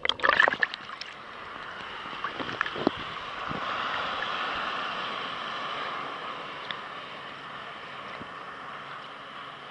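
Water splashing and slapping against the kayak for about the first second, with a few more splashes a couple of seconds in. Then a steady hiss of waves breaking and washing around rocks, swelling a few seconds in and holding.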